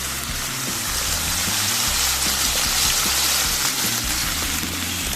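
Food frying in hot oil in a pan, a steady dense sizzle, over background music.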